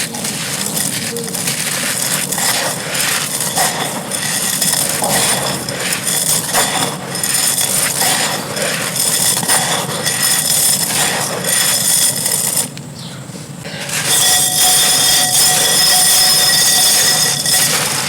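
Dry, gritty clay being crumbled and crushed by hand: dense, irregular crunching and crackling. It drops off briefly about thirteen seconds in, then resumes with a faint steady tone beneath it.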